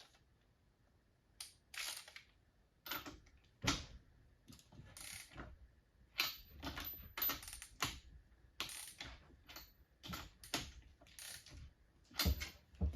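Light metallic clicks and clatters of small engine parts and hand tools being handled, about fifteen separate knocks at irregular spacing, some with a brief high ring.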